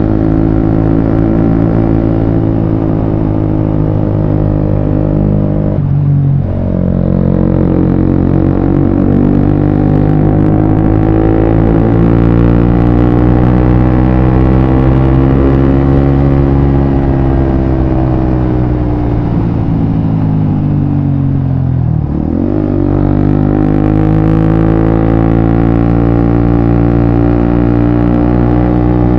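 Suzuki GSX-S150's single-cylinder engine running through a Quinze Big Volume aftermarket exhaust, loud and steady as the bike is ridden. Its pitch climbs slowly and falls again, with a brief break about six seconds in and a sharp dip and climb back just after twenty seconds.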